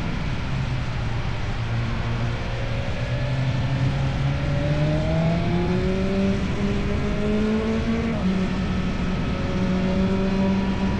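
Motorcycle with an Akrapovič aftermarket exhaust under way, its engine note climbing slowly as it pulls through a gear, with a shift about eight seconds in; a steady rush of wind underneath.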